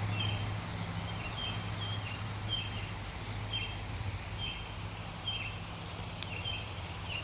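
A bird calling over and over, a short high note with a falling tail about once a second, over a steady low hum.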